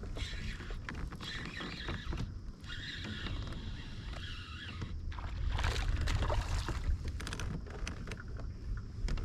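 Water splashing and sloshing around a kayak, with irregular stretches that get louder about halfway through, over a steady low rumble of wind on the microphone.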